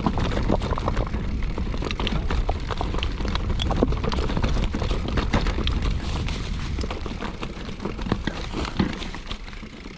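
Mountain bike riding over a rough, rocky trail: a steady rumble of wind buffeting the microphone, with a dense rattle of clicks and knocks from the tyres and the bike, easing slightly near the end.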